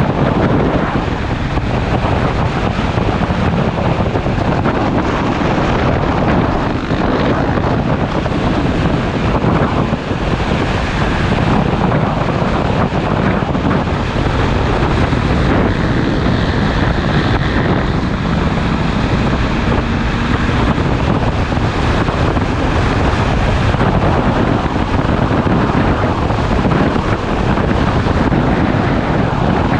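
Riding motorcycle heard through a GoPro: steady wind rush buffeting the microphone over the running engine.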